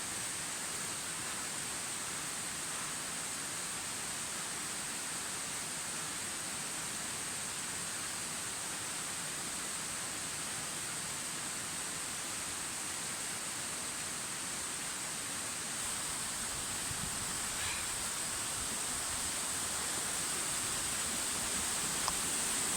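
Rushing water of a mountain waterfall and stream: a steady hiss that grows a little louder over the last few seconds.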